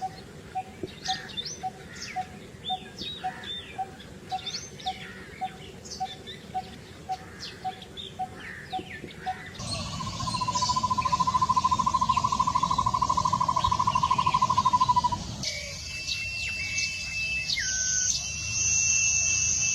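Birdsong from several recordings in turn: first a mix of quick chirps over a low note repeated about twice a second, then a long even trill lasting about five seconds, then long whistled notes that step down in pitch.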